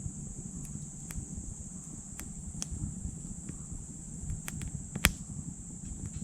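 Wood fire crackling in a titanium wood stove: scattered sharp pops, the loudest about five seconds in, over a low steady rumble. Insects chirr steadily and high throughout.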